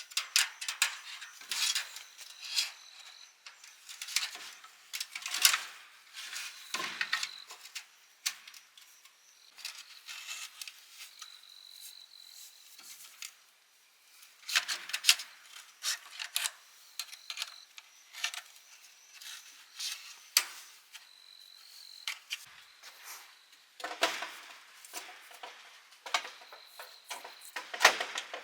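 Irregular light clicks and knocks of hard objects being handled, coming in clusters with short pauses, with a thin high insect-like tone running at times behind them.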